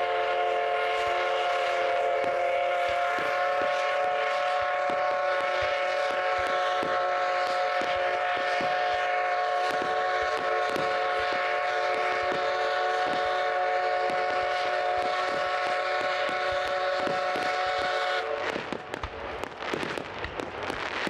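Tobu 6050 series train running past, giving a steady, ringing multi-tone drone over a quick, irregular clatter of wheels on rail joints. The drone cuts off about 18 seconds in, leaving strong wind buffeting and crackling on the microphone.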